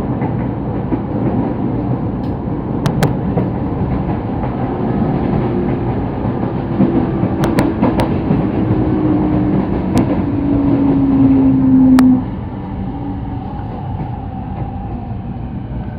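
Sotetsu Line electric train heard from inside the carriage, with steady running noise and a few sharp clicks. A motor whine falls slowly in pitch as the train slows for a station stop, then cuts out suddenly about twelve seconds in, leaving a quieter rumble.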